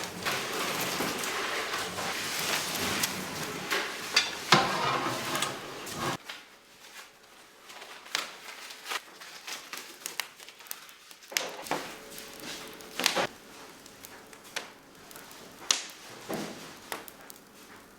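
Bakery work noises: a steady hiss with knocks for about six seconds, then scattered light knocks and clatter of trays and utensils.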